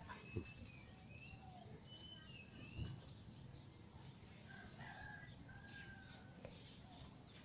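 Faint bird calls: a few thin, drawn-out notes, some dipping and rising, over a quiet outdoor hush. A soft low thump comes about three seconds in.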